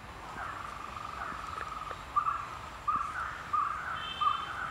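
A bird calling: a fast rattling trill, then from about two seconds in a string of short calls repeating evenly, about one and a half a second.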